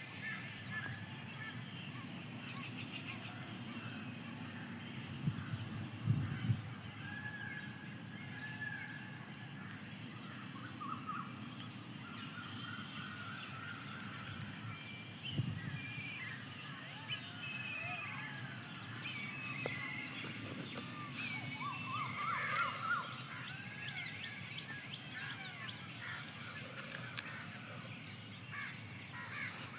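Outdoor chorus of many birds chirping and calling, with crow-like caws among them, over a steady thin high tone. There are a few low thumps about five to six seconds in and again around fifteen seconds.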